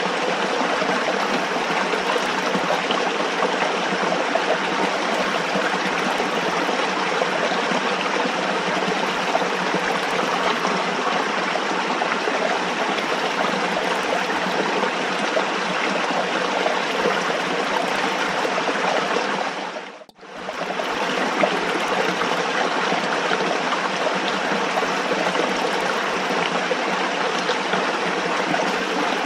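Running water flowing steadily in an even rush. About twenty seconds in it briefly fades almost to silence, then comes straight back.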